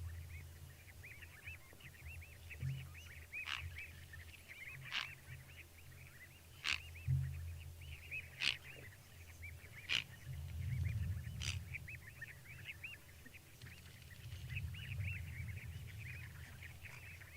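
An outdoor chorus of many small animals making short, quick calls. A louder, sharper call stands out about every second and a half, from a few seconds in until about two-thirds of the way through, over a low rumble that swells twice.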